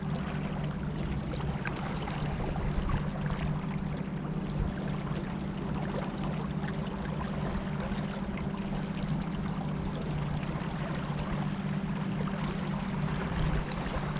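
Boat engine running at a steady speed, an even hum, with water rushing past the hull.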